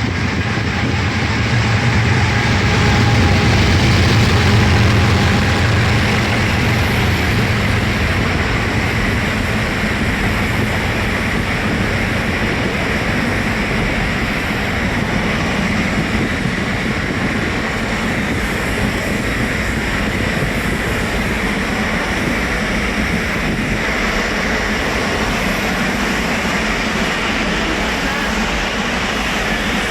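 A train passing. A deep rumble is loudest a few seconds in, then gives way to steady rolling noise.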